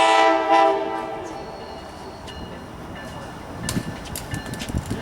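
Train air horn sounding a multi-note chord that cuts off just after the start, then a short second toot that fades away. Near the end come a few scattered knocks and clicks.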